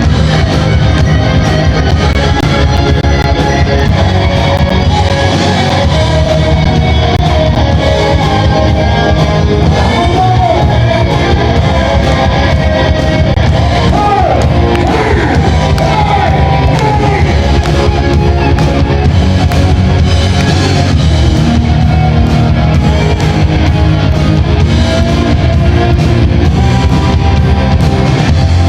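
Rock band playing loudly with a singer's voice over guitar and drums.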